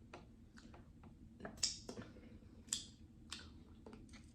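Close-up eating sounds: soft, irregular mouth clicks and smacks of chewing, with a few sharper crackles.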